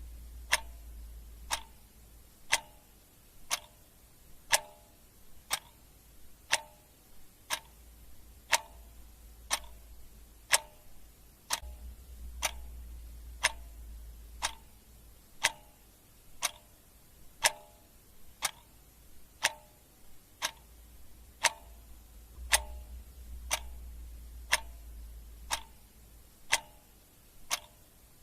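Clock ticking steadily, about two ticks a second, some ticks louder than others in a tick-tock pattern.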